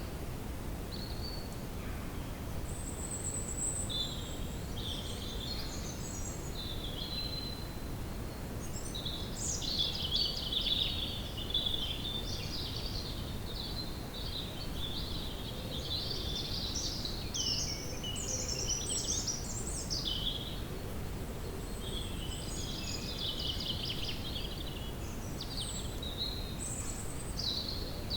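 Woodland ambience: several songbirds singing and chirping in overlapping short phrases, busier from about a third of the way in, over a steady low rumble of background noise.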